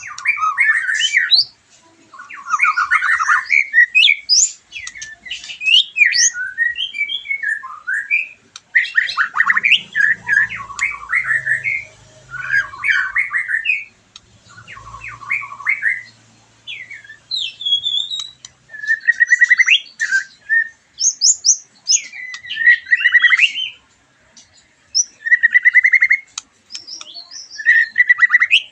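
White-rumped shama (murai batu) singing in bursts of varied phrases: fast trills, chattering runs and short whistled notes, with brief pauses between phrases.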